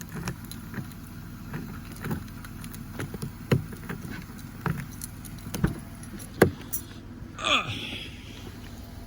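Scattered knocks and handling noises, with the loudest knock about six and a half seconds in and a short squeak falling in pitch about a second later, over the steady low hum of an idling engine.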